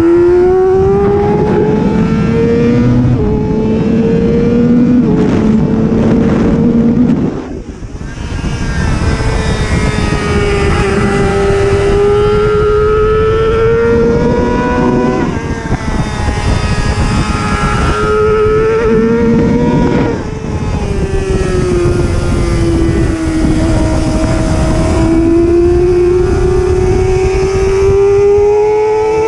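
Superbike racing motorcycle engine at high revs, its pitch climbing and stepping down through gear changes and falling and rising again through corners. The engine briefly goes much quieter about a quarter of the way in, as the throttle closes.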